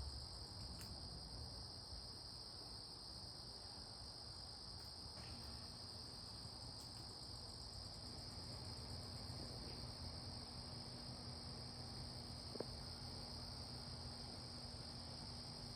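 Insects trilling steadily at a high pitch, in an unbroken continuous chorus. A faint low hum joins about a third of the way in, and there is a single small click near the end.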